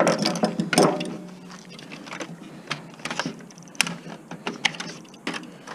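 Irregular clicks, clinks and knocks of metal and plastic parts being handled and set down while an electronic appliance is taken apart by hand for scrap.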